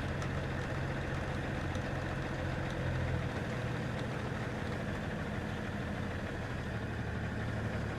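Box truck engine running steadily at low revs, a constant low hum whose deepest note eases a little about three seconds in.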